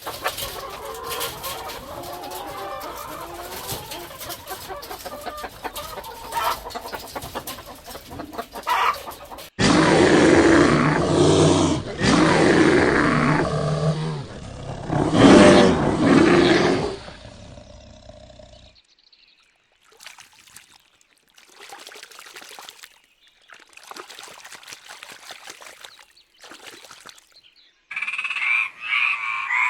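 A run of separate animal-call recordings, each cut off abruptly, with the loudest in the middle. Near the end frogs start croaking.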